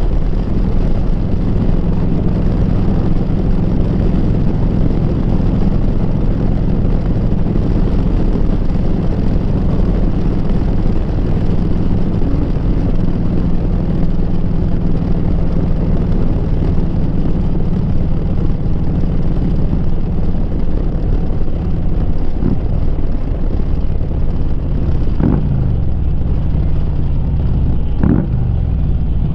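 Harley-Davidson V-twin with a Rinehart exhaust running steadily at cruising speed, with wind rush over the microphone. Twice near the end the engine's pitch sweeps as the revs change.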